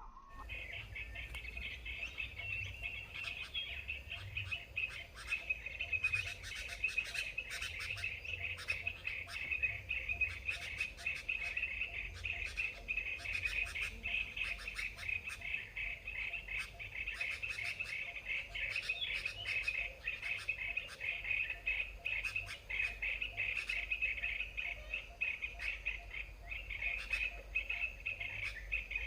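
Birds chirping with many short, sharp calls over a continuous high, fast trill.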